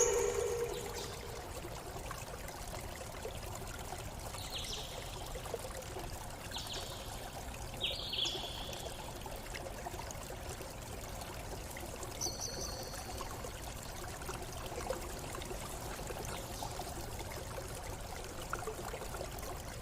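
A stream running steadily, with a few short, high bird calls spread through the middle: about four chirps between roughly four and nine seconds in, and one more a little after twelve seconds. A low ringing tone fades out in the first second.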